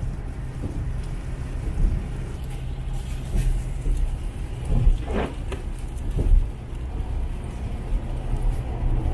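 Steady low engine and road rumble heard from inside a car's cabin while driving on the highway, with a brief higher-pitched sound about five seconds in.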